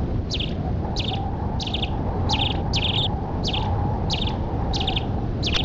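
A bird chirping in short quick trills, repeated about every two-thirds of a second, over a steady low background noise.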